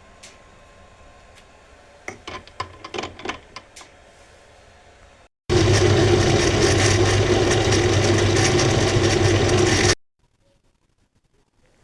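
Small engine of a homemade garden tractor running loud at a steady speed for about four seconds, then cut off abruptly. Before it, a quick series of light clicks and knocks.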